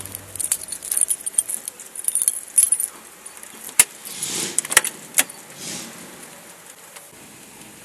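A bunch of keys jangling, followed by a few sharp clicks and a brief rustle.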